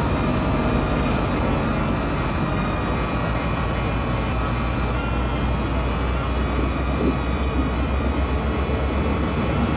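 A CN freight train going by, its diesel locomotives giving a steady low rumble, with a steady whine over it.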